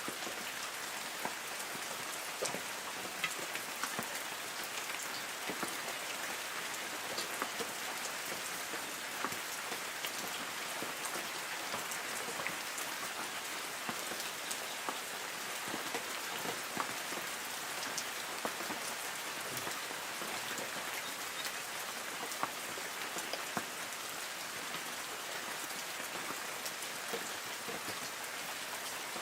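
Light rain falling on forest trees: a steady hiss of rain with many small, scattered drop ticks.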